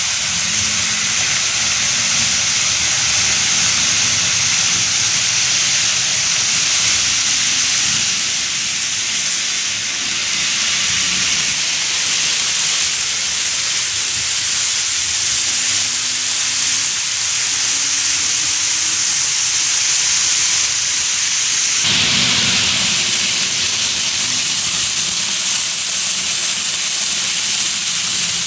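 N gauge model train running along layout track: a steady hissing whir of the small motor and wheels on the rails, growing fuller lower down about three-quarters of the way through.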